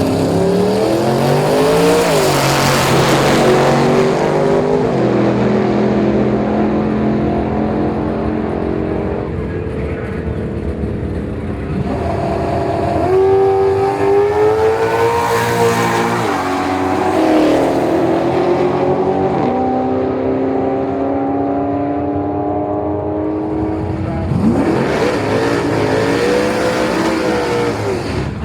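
Drag racing cars accelerating hard down the strip. Their engines rev up and drop back at each gear change several times, and one car passes near the end.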